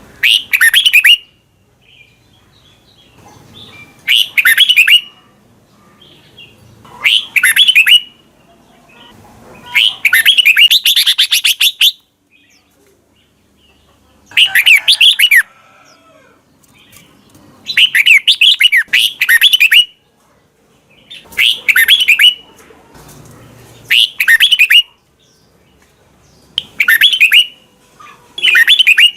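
Red-whiskered bulbul singing: short, bright phrases of rapid warbled notes, each about a second long, repeated about every three seconds, with a longer phrase about ten seconds in.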